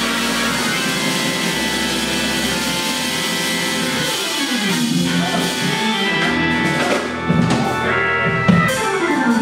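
Live church band music with guitar and drums, with sustained chords and sharper drum strikes in the second half.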